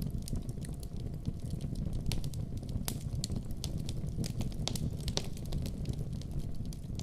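Wood fire burning in a fireplace: a steady low rumble of the flames with frequent sharp crackles and pops, a few louder pops scattered through.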